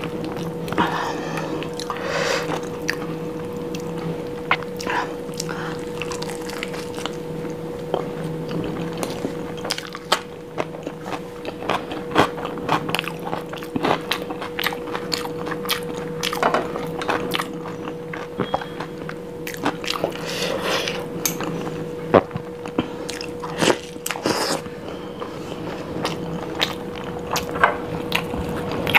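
Close-miked mouth sounds of eating soft, saucy food with the hands: wet chewing, lip smacks and frequent sharp clicks as mouthfuls of potato, paneer and paratha are eaten. A steady hum runs underneath.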